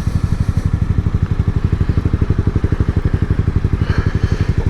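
Yamaha MT-07's parallel-twin engine running steadily while riding, a rapid, even low pulsing with no change in pace.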